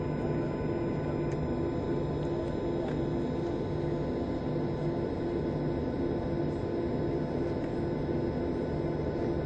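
Steady cabin noise inside a Boeing 737-700 airliner: an even rushing drone with a constant low hum and a faint thin whine, holding level throughout.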